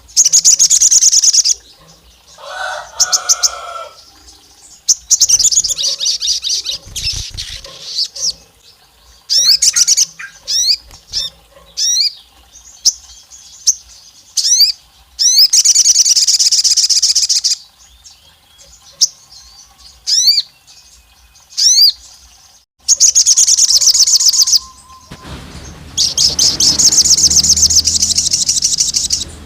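Sogon songbirds calling in bursts: rapid, high trills lasting one to two seconds each, repeated about five times, with short single rising chirps in between.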